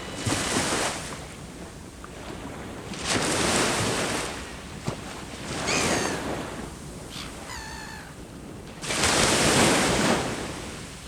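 Sea waves breaking and washing up the shore in four surges of surf, the last the loudest. A bird calls briefly twice in the middle.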